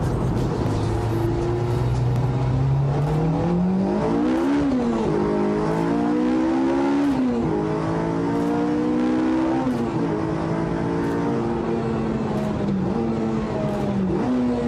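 Honda Integra Type R DC5's K20 four-cylinder engine accelerating through the gears: the revs climb, drop at upshifts about four and a half, seven and ten seconds in, then hold fairly steady.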